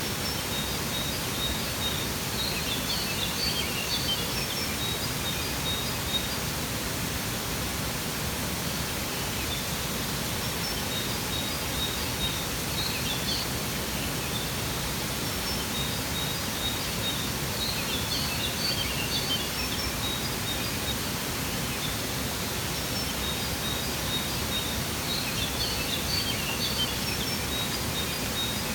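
Waterfall rushing steadily, with small birds chirping over it in short runs of quick, high notes every six or seven seconds.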